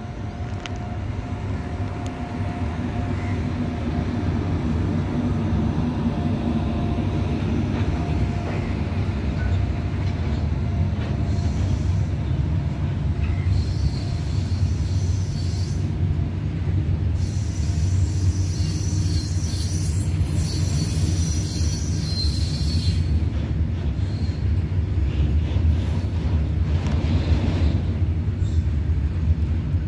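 Freight train of open box wagons rolling past behind a WAG-9 electric locomotive: a steady low rumble of wheels on rail, with high wheel squeal coming and going in the middle.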